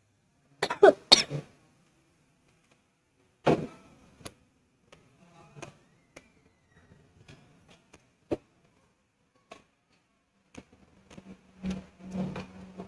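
Sporadic small clicks and clinks of eating, cutlery on a plate and chewing, with a short louder burst about a second in and another a few seconds later.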